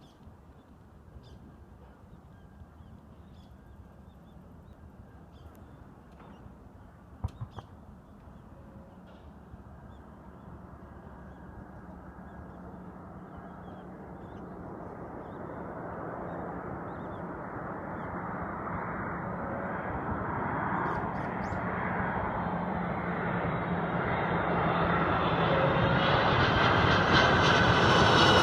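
Airliner's engines growing steadily louder as the aircraft approaches low overhead. A single sharp knock comes about 7 seconds in.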